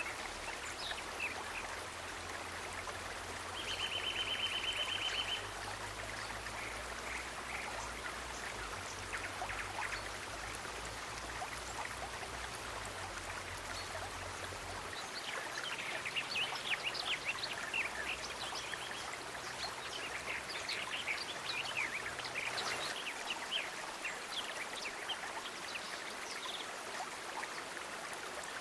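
Steady running water, like a stream. About four seconds in there is a brief, fast-pulsed high trill, likely from an animal, and in the second half there are scattered short high chirps or ticks.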